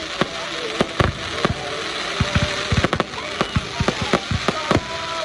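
Fireworks going off: rapid, irregular bangs and cracks, several a second, over a steady hiss.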